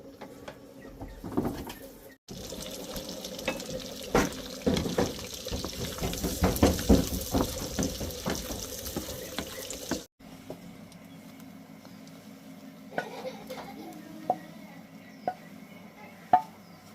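Egg cooking over a fire: a dense hiss with many quick clicks and knocks for about eight seconds, cutting in and out abruptly, then quieter with a few separate knocks near the end.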